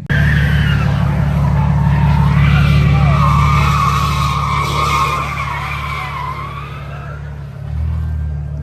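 A car's tyres squealing in a long, wavering screech over its running engine, as in a burnout or drift. The squeal fades about seven seconds in while the engine keeps running.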